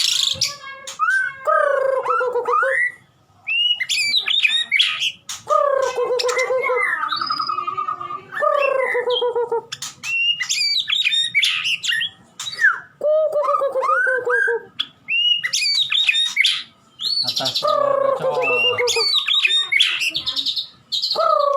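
White-rumped shama (murai batu) singing a varied song: phrases a second or two long with short pauses between, mixing high, quick whistled notes with lower falling notes.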